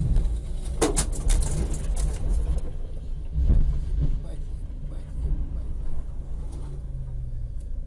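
A car's engine and road noise heard from inside the car, with a quick cluster of sharp knocks and clatter between about one and two and a half seconds in.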